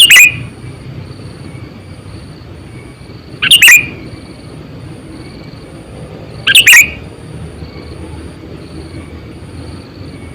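Sooty-headed bulbul (kutilang) giving short, loud chirping calls three times, about three seconds apart.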